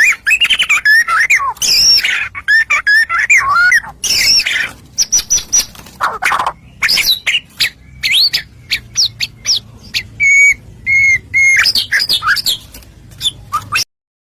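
White-rumped shama singing a fast, varied song of whistled notes, trills and sharp calls, cutting off suddenly near the end.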